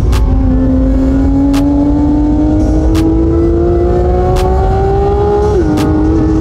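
Porsche 911 GT3's naturally aspirated flat-six accelerating hard, its pitch climbing steadily through a gear. It dips about five and a half seconds in with an upshift, then starts climbing again.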